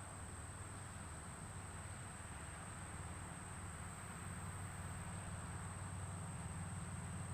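Faint outdoor ambience: a steady, unbroken high-pitched insect drone over a low rumble that grows slightly louder near the end.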